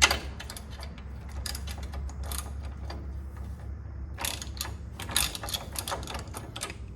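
Hand ratchet clicking in quick runs as a fastener is worked, with scattered metal tool clinks, over a steady low hum.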